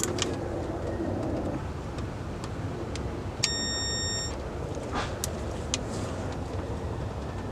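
Faint clicks of a hand tool working on an engine's cam retaining bolts over a low steady hum, with a single steady beep lasting about a second midway.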